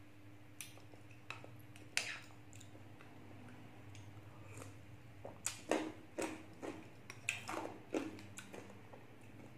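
Close-up eating of raw cucumber chunks: a few light spoon clicks on a glass bowl early, then a run of wet crunching and chewing about halfway in.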